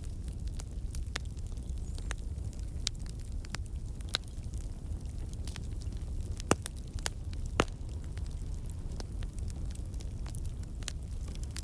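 Campfire of burning logs, with a steady low rumble under scattered sharp crackles and pops, two louder pops a little past the middle. The crackles come from water and sap in the wood turning to steam and escaping.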